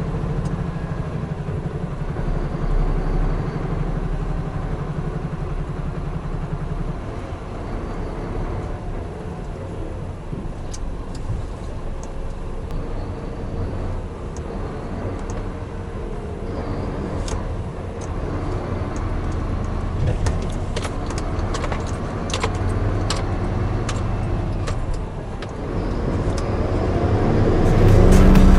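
Large truck's diesel engine running with a steady low hum, its even tone fading into a rougher rumble about seven seconds in. Scattered sharp clicks and knocks come in the second half.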